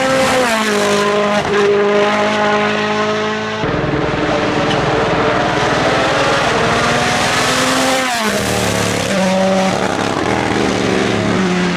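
Rally car engine at high revs on a stage, its note stepping through gear changes, with tyre noise. About eight seconds in the revs drop sharply, then the engine settles to a steadier note.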